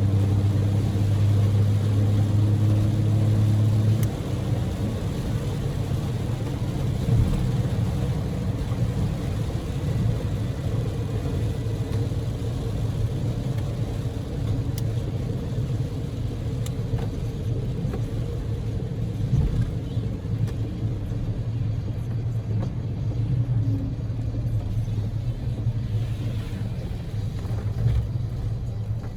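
Inside the cabin of a Daihatsu Move L150S on the move: the 660 cc three-cylinder EF-VE engine's low drone with steady tyre and road noise. The engine note is strong for the first few seconds, then drops back and carries on lower and steadier.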